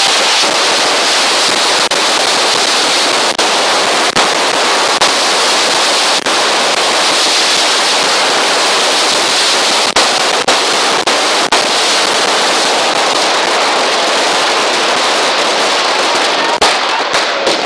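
Fireworks crackling in a dense, unbroken stream, with a few sharper cracks standing out. Near the end the stream thins into separate pops.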